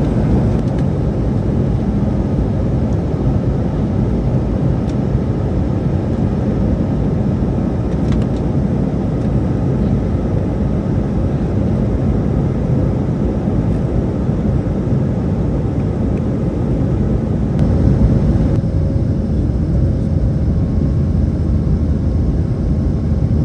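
Steady low rumble of a jet airliner cabin in flight: engine and airflow noise.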